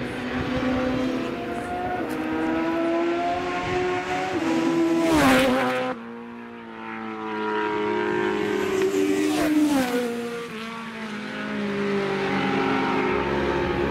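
Carburetted 750cc classic superbike racing motorcycles passing at speed, engines revving up through the gears. The loudest bike goes by about five seconds in with its pitch dropping as it passes, the sound falls away abruptly just before six seconds, and another bike passes with a falling pitch around nine to ten seconds.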